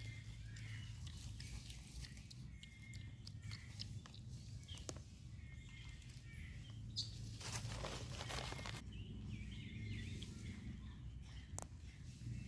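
Faint forest ambience: short high bird chirps repeating about once a second over a steady low hum, with scattered clicks and a brief rustle a little past the middle.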